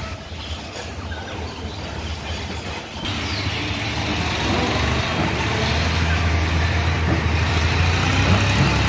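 Heavy diesel engine running under load, stepping up and growing louder about three seconds in as it works harder.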